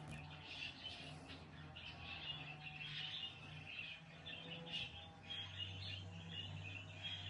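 Many small birds chirping and chattering continuously, overlapping calls with no break.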